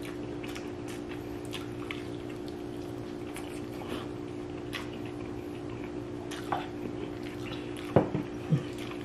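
Close-up eating sounds: wet chewing with small smacks and clicks of the mouth, over a steady low hum. A couple of louder short knocks come near the end.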